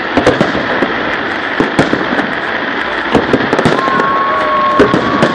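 Fireworks salute going off: a dense run of bangs and crackling bursts, one after another. A long steady whistle-like tone comes in near the end.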